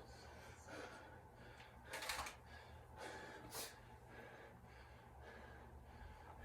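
Faint, heavy breathing of a man winded from burpees: a few sharp breaths about two, three and three and a half seconds in.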